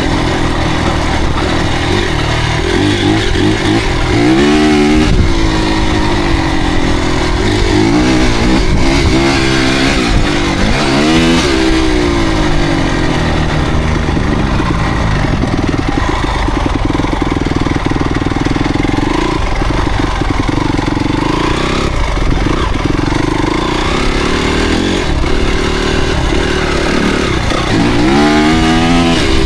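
Motocross dirt bike engines running hard, revving up and down in repeated sweeps of pitch, most strongly about four to five seconds in, again from about eight to twelve seconds, and near the end.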